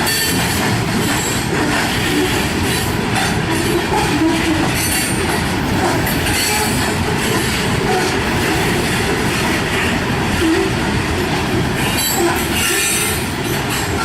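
Freight train cars rolling past: a loud, steady rumble and rattle of steel wheels on the rails.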